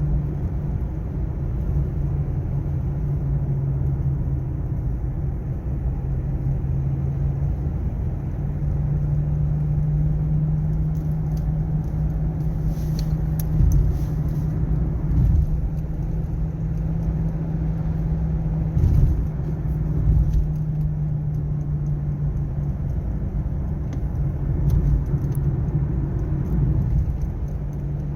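Mazda2 on the move, heard from inside: a steady low drone with rumbling road noise and a few brief bumps. The drone is the sign of a worn wheel hub bearing, which has been getting louder.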